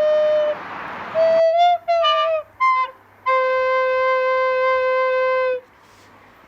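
Flute playing slowly. A long held note gives way to a breathy rush of air, then a few short notes that bend in pitch, then a long, slightly lower note that stops about five and a half seconds in.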